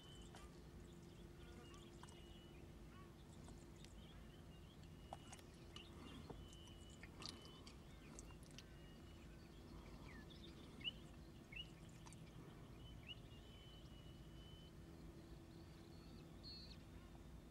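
Quiet outdoor ambience with a steady low hum, faint brief high-pitched bird chirps scattered through it, and a few soft clicks. No loud harsh raven calling stands out.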